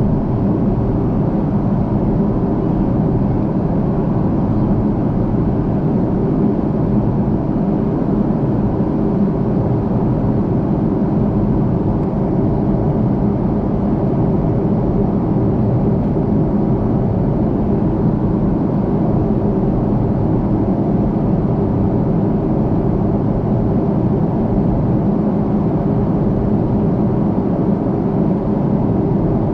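Steady cabin noise of an Airbus A330-300 in flight: an even, low rush of airflow and its Rolls-Royce Trent 700 engines, with a faint steady hum underneath.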